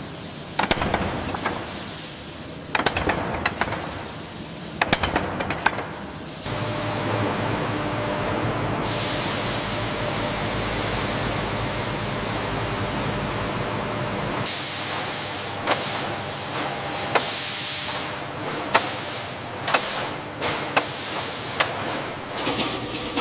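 Factory machinery noise: a series of metallic knocks and clicks, then a steady hiss for about eight seconds, then more knocks and clicks near the end.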